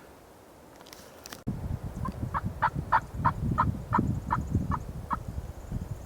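A run of about ten evenly spaced turkey yelps, about three a second, louder in the middle of the run. Under them is a low rumbling noise that comes in suddenly about a second and a half in.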